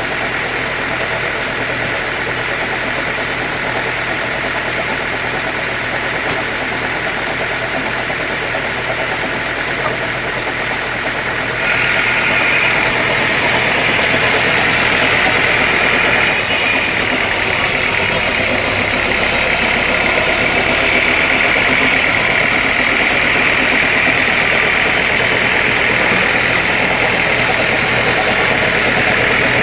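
Sawmill machinery running steadily with an engine-like hum. About twelve seconds in it gets louder and a higher whine joins in, and a high hiss is added for a few seconds soon after.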